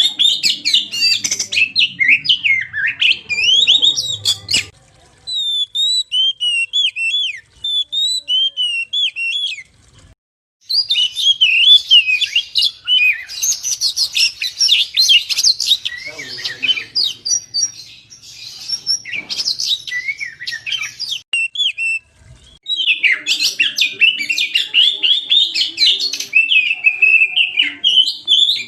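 Oriental magpie-robin (kacer) singing a fast, varied song of rapid whistled and chirping notes. The song is a sparser, quieter phrase for a few seconds, then breaks off briefly about ten seconds in and again about twenty-two seconds in.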